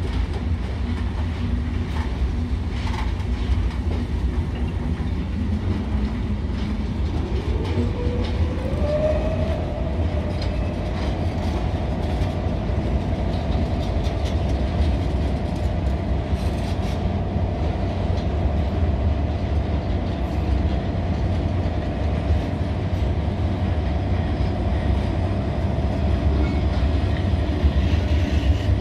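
Freight train of tank wagons and covered hopper wagons rolling past, a steady low rumble with clicks of the wheels over rail joints. A tone rises in pitch from about six to nine seconds in and then holds steady.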